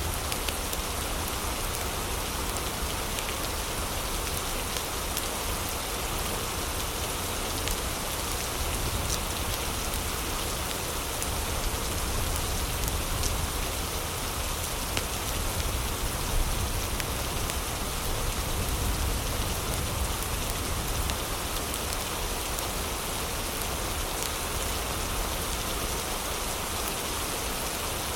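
Heavy rain falling steadily, an even hiss of drops over a deep low rumble.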